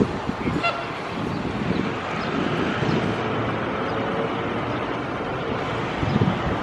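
Steady outdoor rumble of vehicle noise with wind buffeting the microphone, and a single sharp click at the very start.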